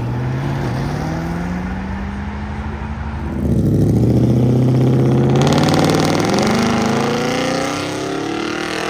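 Car engines accelerating away with pitch climbing. A second, louder engine comes in about three seconds in and rises steadily through the revs, and a broad rushing noise joins it past the middle.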